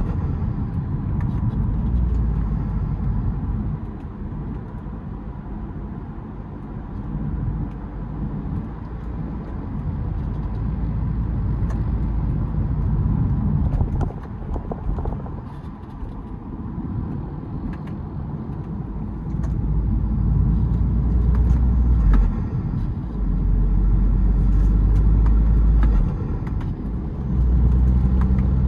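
BMW 320d four-cylinder turbodiesel with a K&N cold air intake, heard while driving. The engine's low rumble swells and eases as the throttle is opened and lifted, louder in the second half with brief dips.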